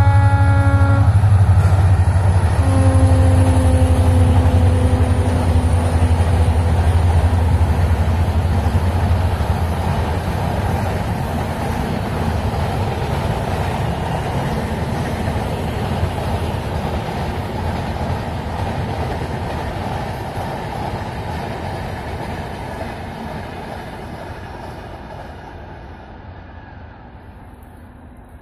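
A diesel locomotive hauling LHB passenger coaches passes by. Its horn sounds twice over a heavy engine rumble: one blast ends about a second in, and a longer one runs from about three to eight seconds, dropping slightly in pitch. After that comes the steady rumble of the coaches' wheels on the rails, fading as the train moves away.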